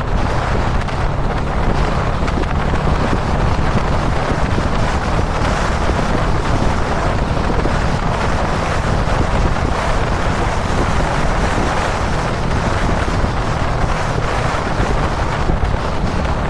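Kawasaki Dominar 400 single-cylinder motorcycle cruising at a steady expressway speed, its engine drone under heavy wind rush on the camera microphone.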